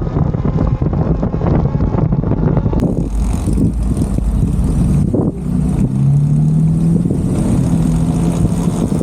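Talaria Sting MX4 electric dirt bike being ridden: a steady rush of wind and riding noise picked up by the camera mounted on the bike.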